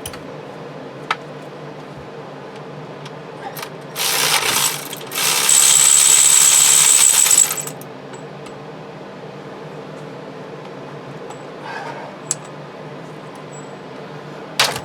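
Pressurised air hissing out in two bursts about four seconds in, the second louder and longer, lasting about two seconds, with a steady high whistle. A few light metallic clicks of tools come before and after it.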